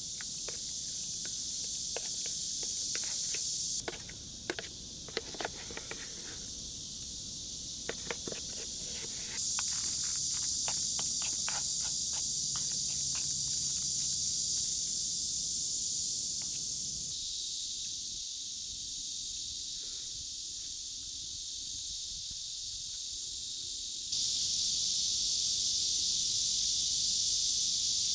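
Steady hiss of rain with scattered drips ticking between about 4 and 14 seconds in; the hiss steps up and down in level several times.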